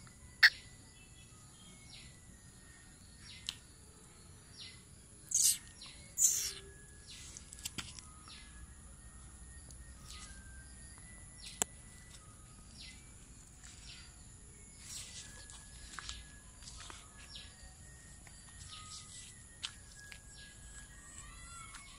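Bird chirps and short calls repeating irregularly over a faint steady high whine, with two louder sharp calls about five and six seconds in.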